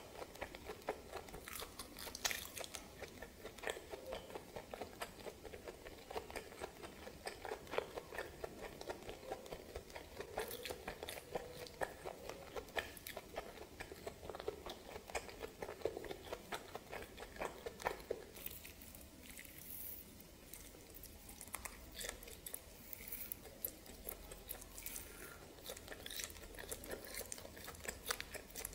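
Close-miked chewing and crunching of steamed snake meat and small bones, a dense run of wet clicks and crunches. It thins out into a quieter spell a little past the middle, and scattered crunches return near the end.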